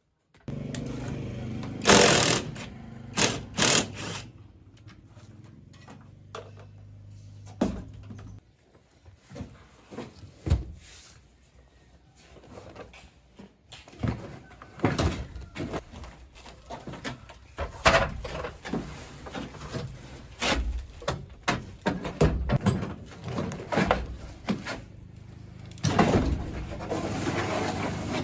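Hand-tool work on a car: a series of separate knocks and clanks, over a steady low hum that stops about eight seconds in. A louder rushing noise comes near the end.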